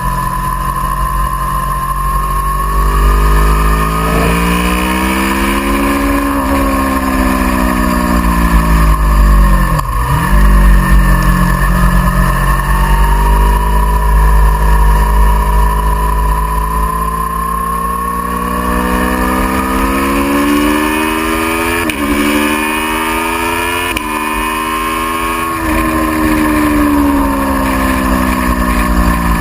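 Aprilia Tuono V4R's V4 engine heard from on board, revs climbing and falling repeatedly, with sudden drops in pitch at gear changes. A heavy low rumble of wind on the microphone runs underneath.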